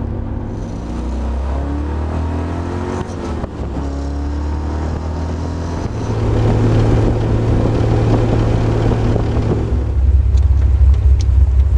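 A hot-rodded Pontiac Tempest's V8 engine running under way, its pitch rising and falling a little in the first few seconds, then louder about six seconds in and again near the end. It is running cleanly on a carburettor freshly tuned for altitude.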